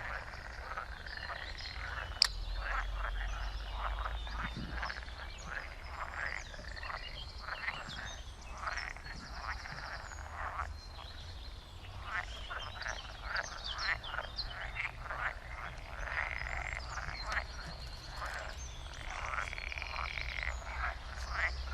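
A chorus of frogs croaking continuously, many calls overlapping in rapid trains. A single sharp click sounds about two seconds in.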